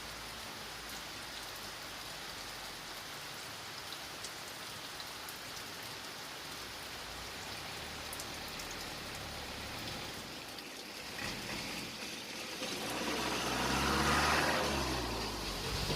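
Steady rain falling. In the last few seconds an engine comes up over the rain, grows louder, and eases off just before the end.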